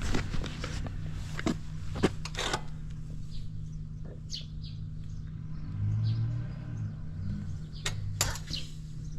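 Suzuki Volty's 250 cc single-cylinder four-stroke engine idling steadily, a little louder about six seconds in, with a few sharp clicks over it. The seller calls the engine free of abnormal noise.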